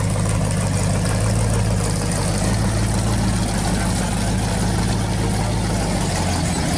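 Supercharged V8 of a blown pro street Camaro idling steadily with a deep, even low rumble and no revving.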